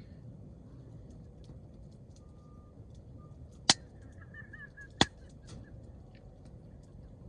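Wood fire of broadleaf hardwood crackling, with faint ticks throughout and two sharp pops about a second and a half apart near the middle. A brief wavering high whistle sounds between the two pops.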